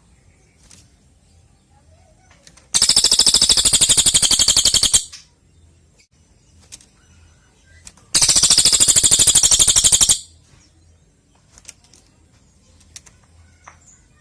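Cililin bird giving a fast, rattling trill twice, each burst about two seconds long, with faint chirps between.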